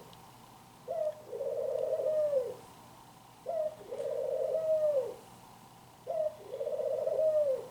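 A dove cooing three times, evenly spaced. Each call is a short note, then a long rolling coo that drops in pitch at the end.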